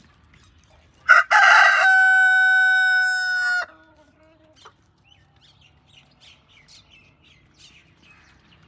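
A rooster crows once, a single long crow starting about a second in, with a held note that drops at the end. Faint short chirps follow.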